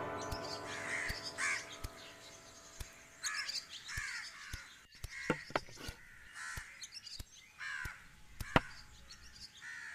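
Birds giving short calls again and again, a few every couple of seconds, with a few light clicks between them, as jungle ambience in a cartoon. Background music dies away in the first second.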